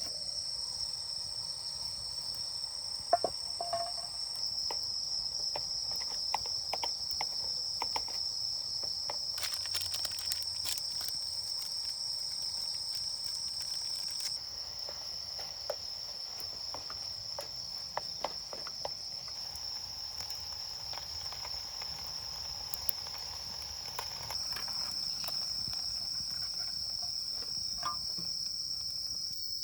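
A chorus of insects chirring steadily at one high pitch, with scattered small clicks and taps.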